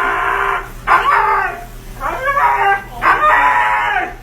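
Husky howling and whining in about four long, drawn-out calls, its pitch bending up and down within each one.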